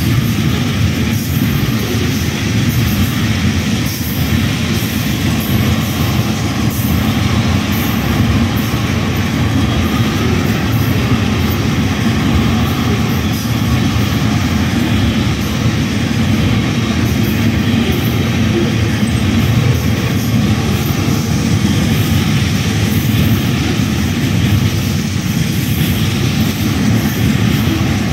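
Long freight train of railroad tank cars rolling past at close range: a loud, steady rumble of steel wheels on the rails.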